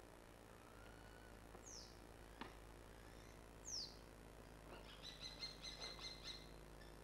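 Faint bird calls over near-silent outdoor background: two short whistles sliding downward a couple of seconds apart, then a quick run of repeated chirps near the end. A couple of faint knocks are heard as well.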